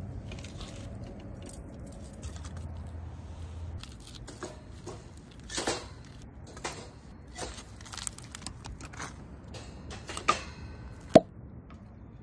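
Irregular clicks, taps and knocks, with a short low hum early on and one sharp, loud knock about eleven seconds in.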